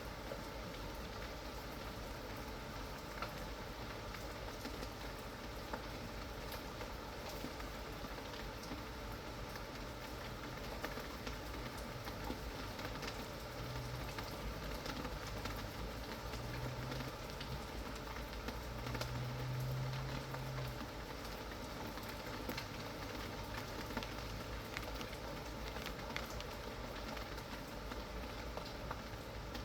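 Steady rain falling, with many small drops pattering and ticking. A low hum swells up in the middle and fades away again.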